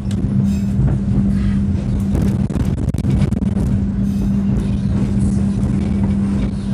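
KA Harina passenger train running along the line, heard from inside a coach: a steady low rumble with a constant hum, and scattered clicks and rattles.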